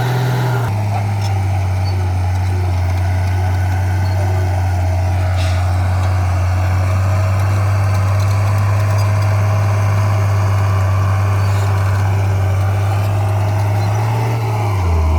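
Heavy diesel engine of earthmoving machinery running steadily with a deep drone. The engine speed settles lower within the first second and rises briefly near the end.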